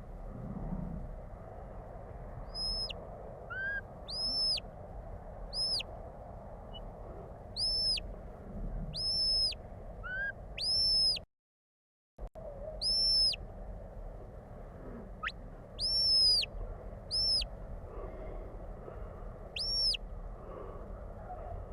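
Shepherd's whistle commands to a working sheepdog: a run of short, high whistle notes, some held flat and some sliding up, given in quick groups over a steady low rush. The sound cuts out for about a second midway.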